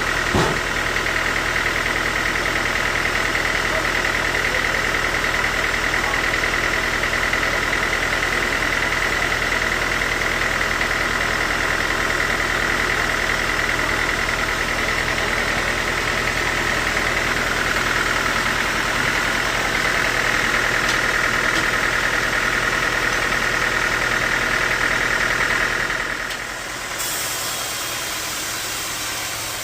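Bandsaw sawmill running, its band blade and drive giving a steady high whine over a low hum. The sound drops and changes about 26 seconds in.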